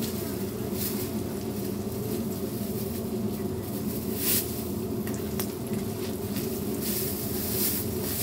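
Hotteok dough sizzling in hot oil on a flat griddle as the dough balls are pressed flat with a metal hand press. The frying is steady, with a few short, louder surges of sizzle, over a steady low hum.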